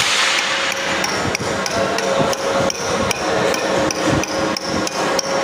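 A hammer strikes metal in quick, uneven blows, about three a second, with a steady hum underneath.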